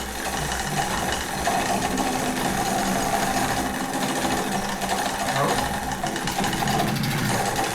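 Peugeot 102 moped's 50 cc two-stroke engine running steadily.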